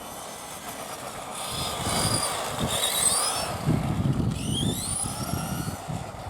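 Tamiya radio-controlled truck's electric motor and gearbox whining, rising in pitch several times as it speeds up, over a low rumble that swells in the middle.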